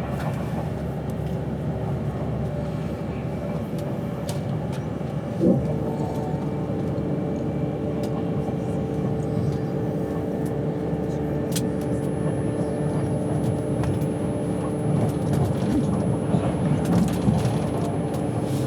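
Avanti West Coast train running at speed, heard from inside the carriage: a steady low rumble of the running gear. There is a knock about five seconds in, after which a steady hum joins the rumble.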